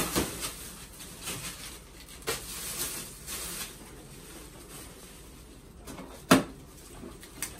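A few scattered knocks and clatters of household objects being handled, with soft rustling between; the sharpest, loudest knock comes about six seconds in.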